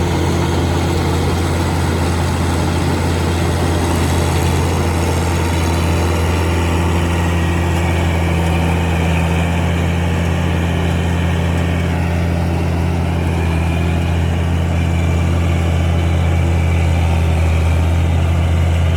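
A vehicle engine running steadily with an even, low drone that does not change in pitch.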